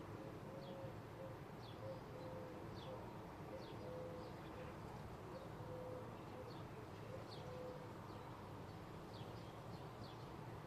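Faint birdsong: a small bird repeats short, high, falling chirps about once a second, while a dove coos in low, drawn-out notes. A steady low background rumble runs underneath.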